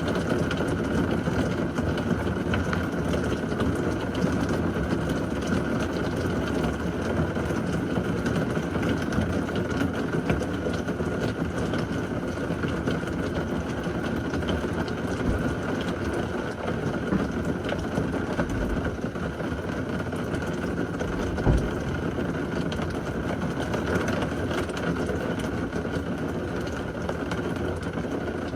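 Heavy rain from a severe thunderstorm pouring steadily, a deep, even wash of noise, with one brief low thump about three quarters of the way through.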